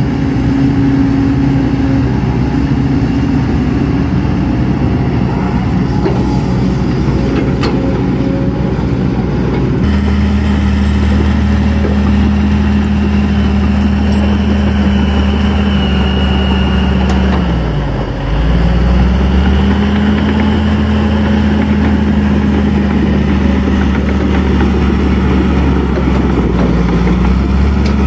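Excavator's diesel engine running steadily. The sound changes abruptly about a third of the way in. About two-thirds through, the engine's pitch dips briefly and picks back up.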